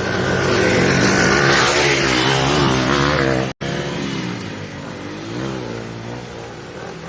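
Dirt bike engines revving, their pitch rising and falling. The sound drops out completely for an instant about halfway through, and the revving after that is quieter.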